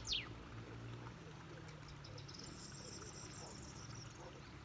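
Faint birdsong in the open: a quick falling whistle at the start, then a high, thin trill for about two seconds in the second half, over a low steady hum.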